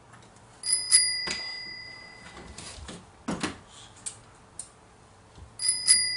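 A small bell rung with a quick double ding, each ring lingering for a second or two, heard twice: about a second in and again near the end. A few scattered knocks and a thud fall between the two rings.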